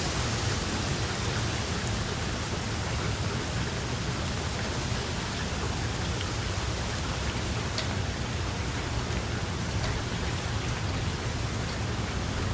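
Steady rain: an even hiss with a strong low rumble beneath it and a few single drops ticking out, two of them past the middle.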